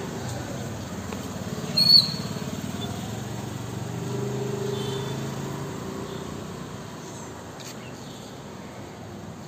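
A steady low hum, with one short, high bird chirp about two seconds in as the loudest sound, and a few fainter chirps a little later.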